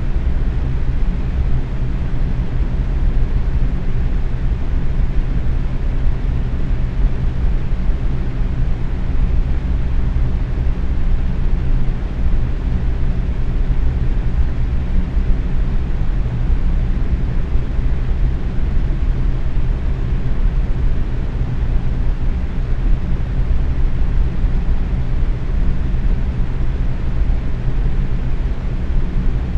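Box fan running steadily at medium speed: a constant low, rushing whoosh of air with a faint steady hum underneath.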